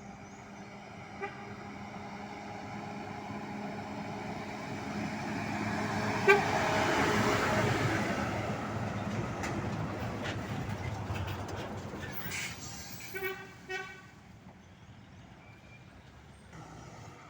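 A customised Scania truck passes by. Its engine noise grows to a peak near the middle and then fades, while its ship-style air horn sounds, with two short toots late on.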